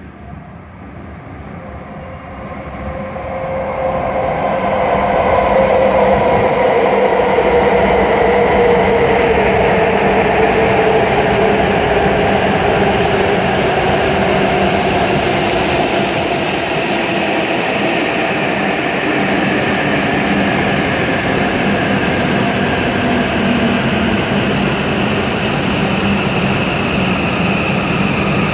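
W7 series Shinkansen train pulling into the platform and braking. The rumble builds over the first few seconds as it approaches, then holds steady, with a whine that falls slowly in pitch as the train slows.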